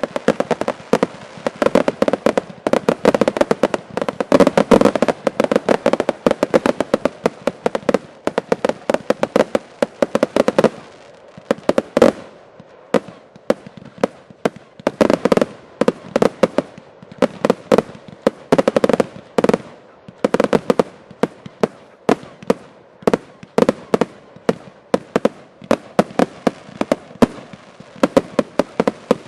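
Fireworks finale: a rapid barrage of bangs, packed closely for about the first ten seconds, then thinning into clusters of bangs with short gaps.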